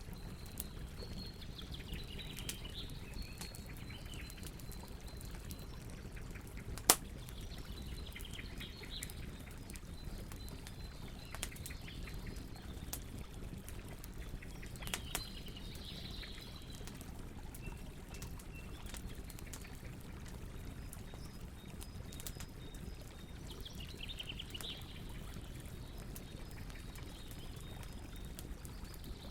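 Campfire burning, with a steady low rush and frequent small crackles, and one loud pop about seven seconds in. Faint high chirps come and go in the background.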